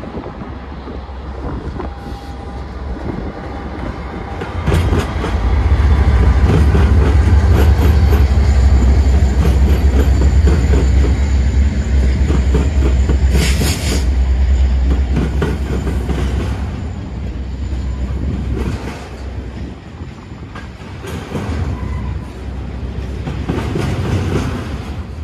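A freight train's diesel locomotives pass close by with a deep engine rumble, loudest from about five seconds in until around sixteen seconds, with a brief hiss about halfway through. Double-stack intermodal container cars follow, rolling past with steady wheel clatter on the rails.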